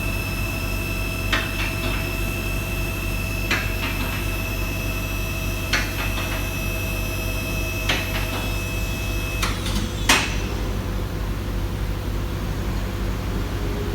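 Portable heavy-duty vehicle lift raising a truck: sharp metal clacks about every two seconds over a steady hum and a high whine, typical of the lift's safety locks catching as it climbs. Two louder clanks come near the end, and the whine stops with them.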